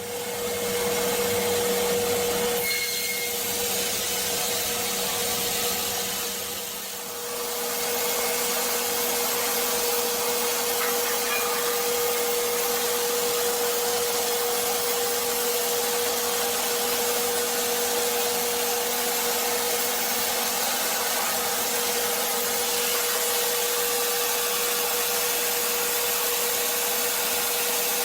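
Wood-cutting machine running steadily: a constant whine over a loud hiss, dipping briefly about seven seconds in.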